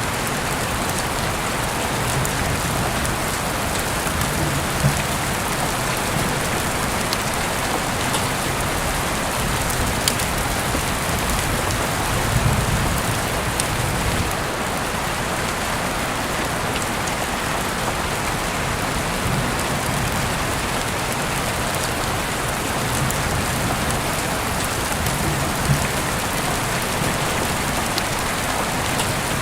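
Steady rain pattering on surfaces, with a few sharp clicks now and then. A soft low swell rises briefly about halfway through.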